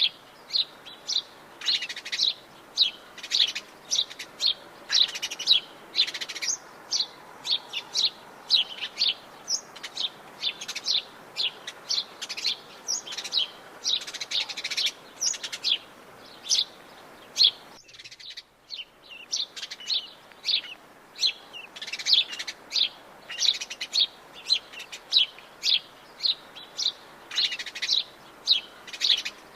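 Several birds of the Brazilian Atlantic Forest chirping and singing together: quick high chirps several times a second, overlapping, over a faint background hush. There is a brief drop in the background a little past halfway.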